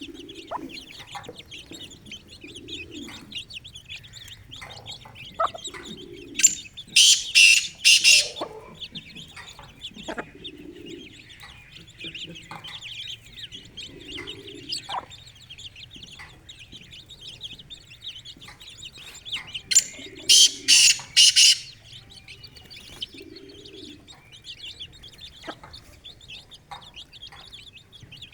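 Chicks peeping continuously, with the mother hen's low clucks every few seconds. Two loud, harsh bird calls made of several pulses break out, about seven seconds in and again about twenty seconds in.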